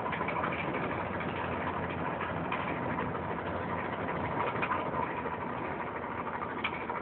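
Steady drone of motorboat engines from the spectator fleet on the water, heard through a mobile phone's microphone.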